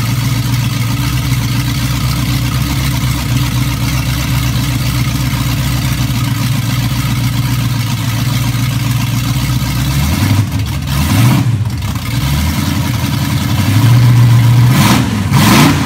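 Ford flathead V8 with Ardun overhead-valve heads and a SCoT supercharger, idling steadily, then revved briefly about ten seconds in and again, louder, near the end.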